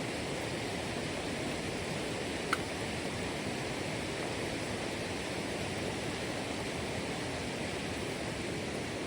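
Steady rushing of running water, even and unbroken, with one faint click about two and a half seconds in.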